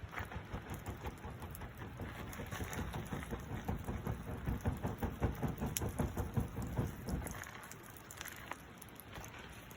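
Campfire crackling and popping densely over a low rumble; the rumble dies away about seven seconds in, leaving scattered pops.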